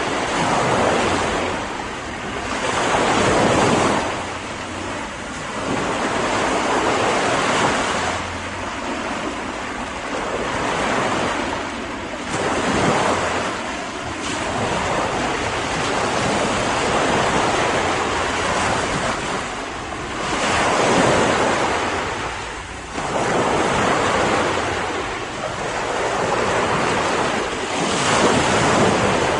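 Ocean surf: waves breaking and washing on a beach in a continuous hiss that swells and falls back every few seconds.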